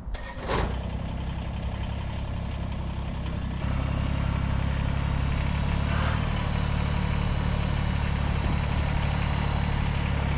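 Kubota compact tractor's engine running steadily at low revs, becoming louder suddenly about three and a half seconds in and then holding steady.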